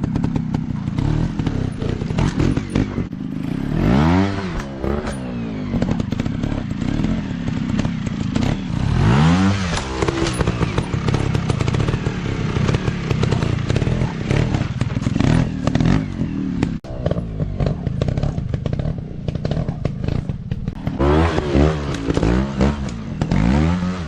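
Dirt bike engine running rough and clattery, revving up and down several times, with its pitch rising and falling in sweeps about 4, 9 and 21 seconds in.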